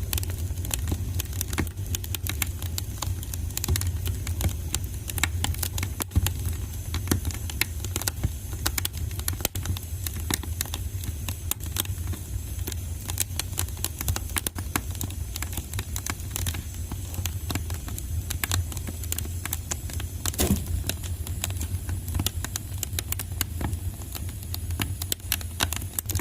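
Fireplace fire crackling, with frequent irregular pops and snaps over a steady low rumble; one pop about twenty seconds in is louder than the rest.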